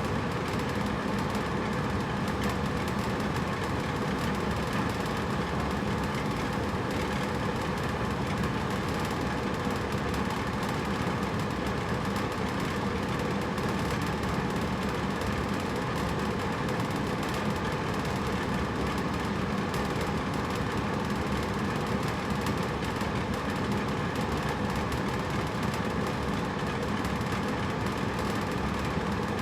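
Hotel room air conditioner running steadily: an even rush of air with a faint low hum, unchanging throughout.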